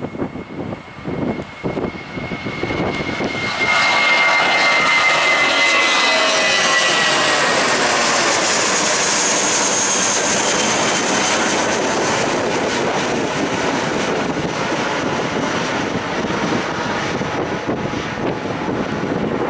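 Airbus A320-232's twin IAE V2500 turbofans at takeoff power as the jet passes. The roar builds over the first few seconds with a whine that drops slightly in pitch. It is loudest about ten seconds in, then slowly fades as the aircraft climbs away. Wind buffets the microphone at the start.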